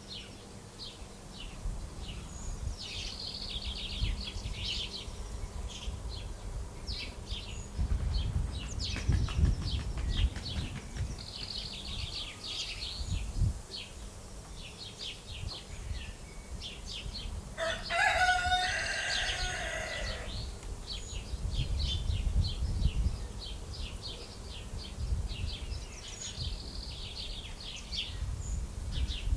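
Many small birds chirping in quick short notes throughout, with a rooster crowing once, a call of about two seconds, about two-thirds of the way in. A low rumble comes and goes underneath.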